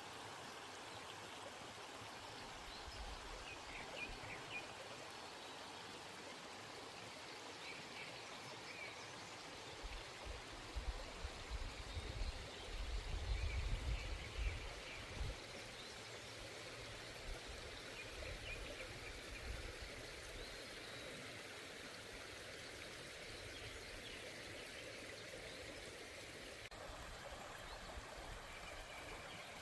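Valley stream flowing steadily, with faint chirps over it. A stretch of low, uneven rumbling runs through the middle.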